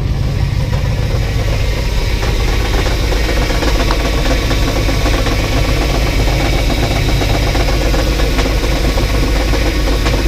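1984 box truck's engine running on 15-year-old stale fuel at its first start-up after sitting, uneven and knocking; it doesn't sound the happiest. It grows a little louder about two seconds in.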